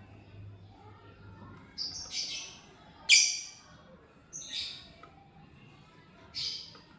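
Lovebird giving four short, high-pitched chirping calls spread over a few seconds; the second one is the loudest.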